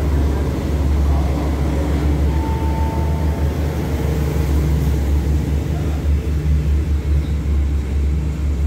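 Passenger train's stainless-steel carriages rolling past at speed along the platform, wheels on rail making a loud, steady low rumble. A brief thin tone rises over it about two and a half seconds in.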